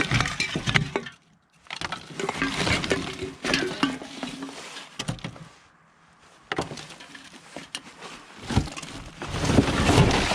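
Scrap being handled and rummaged through: irregular clattering, knocks and rustling, broken by two short lulls, about a second in and around six seconds.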